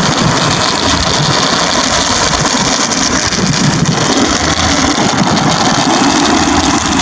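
A vehicle's engine running with steady noise.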